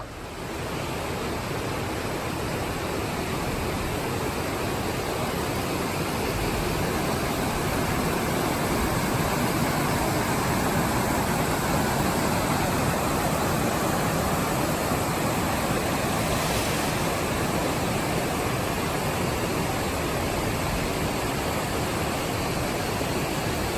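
Amicalola Falls cascading: a steady rush of falling water, growing a little louder over the first few seconds and then holding even.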